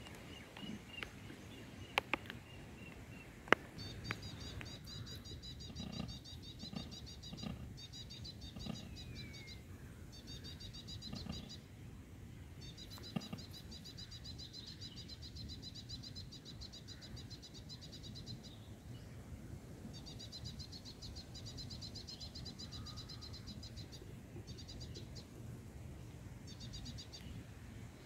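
Rapid, high-pitched chirping from a small bird, repeated in runs of several seconds with short pauses, over a low steady background hum. A few sharp clicks come in the first few seconds.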